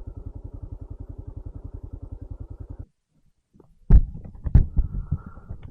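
Kawasaki KLR 650's single-cylinder engine running with an even, rapid thumping beat, which cuts off abruptly just under three seconds in. After a short silence come a few heavy low thumps with rumbling.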